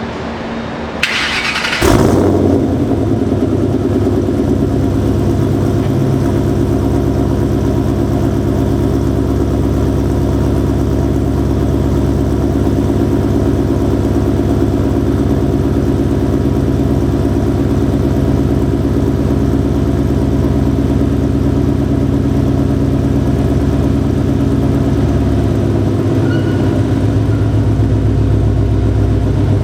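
Ford Mustang GT V8 with long-tube headers, an off-road X-pipe and mid-mounted Pypes M80 mufflers feeding muffler deletes, cranked on the starter and catching about 2 s in, then idling loudly and steadily through the open exhaust.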